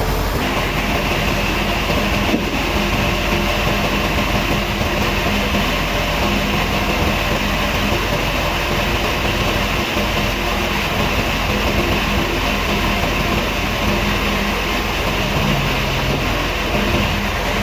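Woodworking machinery running steadily and loudly, with a higher steady whine that comes in about half a second in and stops just before the end.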